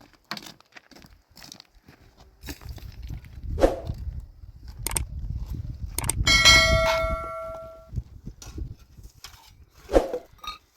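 Knocks and clatter of objects being handled, with a metal object struck about six seconds in and left ringing for a second or two, then another knock near the end.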